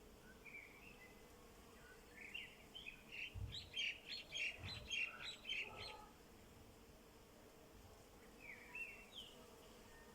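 A songbird singing: a fast run of quick, high twittering notes lasting about four seconds, with a few shorter sliding calls a little before and near the end.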